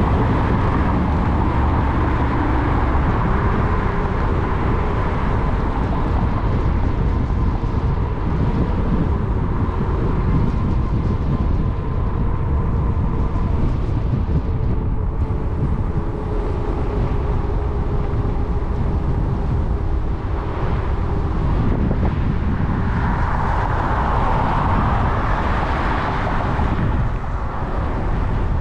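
Wind rushing over a GoPro microphone on an e-bike riding at speed, with a faint steady whine from the electric motor under full power. A louder rush of noise swells for a few seconds near the end.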